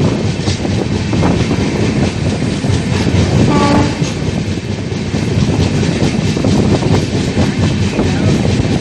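Passenger coach running along the track, heard from its open doorway: wheels clattering over rail joints amid steady rumble and wind. A brief horn note sounds about three and a half seconds in.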